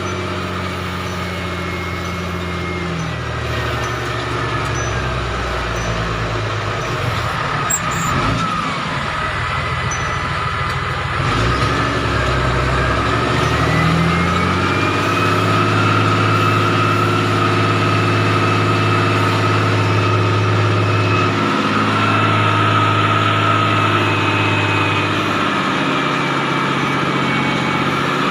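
MTZ-1221 tractor's six-cylinder diesel engine running under load while pulling a cultivator, with a whine that follows the engine speed. The engine slows down from about three seconds in, stays low for a few seconds, then picks back up by about fifteen seconds in and runs steadily.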